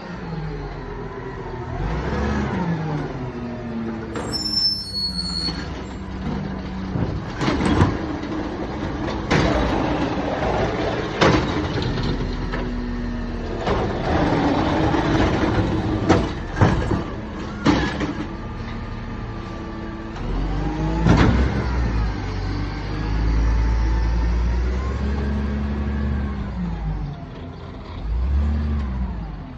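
Crane Carrier LET2 garbage truck's diesel engine revving up and settling back again and again as it works, with several sharp metallic bangs in the middle and a brief high squeal early on.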